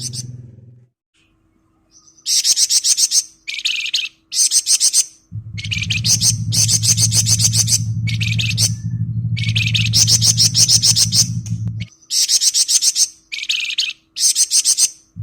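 Flamboyan songbird singing in rapid, dense, high-pitched trills ('ngebren'), a string of short bursts each lasting up to about a second with brief gaps between. A low steady hum runs underneath from about five seconds in to about twelve.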